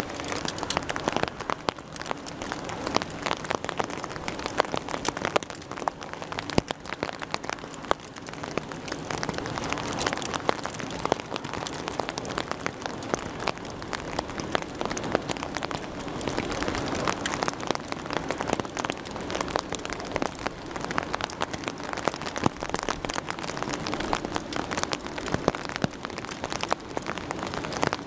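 Steady rain falling, with many close drops ticking sharply on a hard surface near the microphone.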